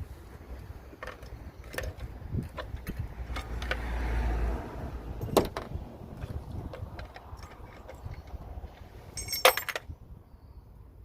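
Scattered metallic clicks and knocks of tools and parts being handled, with a low rumble around four seconds in and a short metallic jangle about nine seconds in.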